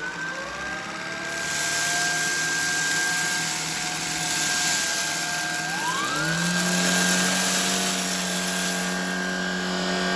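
Shark Vertex cordless stick vacuum running with a steady motor whine. About six seconds in its note rises and a deeper hum joins, as it changes to its carpet mode.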